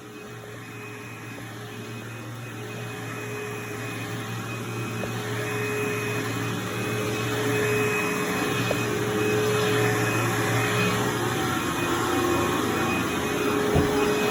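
A vacuum running steadily, with a constant hum and whine, growing steadily louder; a brief knock near the end.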